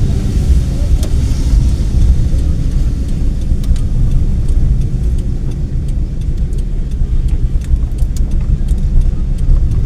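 Car interior road noise while driving: a steady low rumble of engine and tyres, with light rattles and clicks over bumps.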